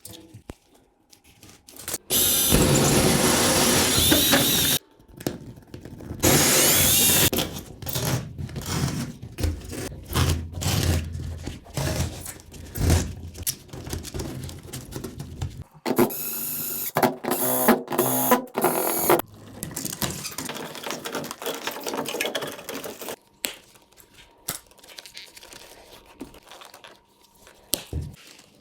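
A power tool, likely a drill boring holes for electrical socket boxes, running in loud sustained bursts of a few seconds each, with scraping and knocking between the bursts.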